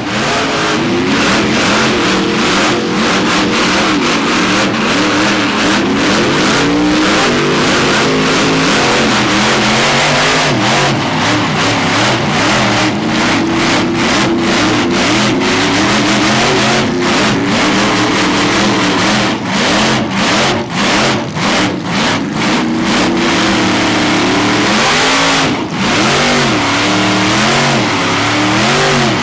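Big off-road truck engines revving hard under the load of a tug-of-war pull, their pitch rising and falling again and again, with a scatter of sharp cracks throughout. The revving briefly eases off about two-thirds of the way through.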